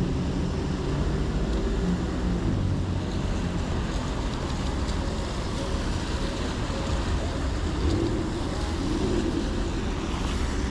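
Steady noise of heavy rain and car traffic on a wet city street.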